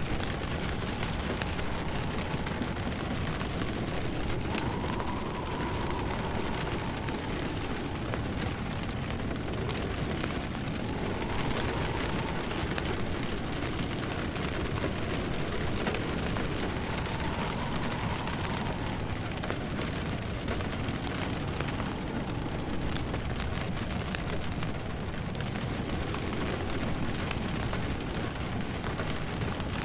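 Steady rain with a fireplace crackling, and a soft howl that rises and falls about every six seconds.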